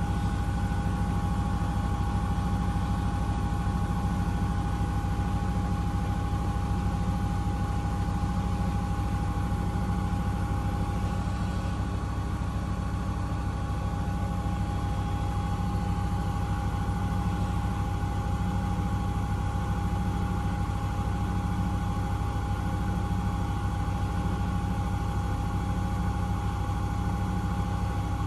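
Miele W1 Active washing machine running steadily, a constant low motor hum with a steady whine over it.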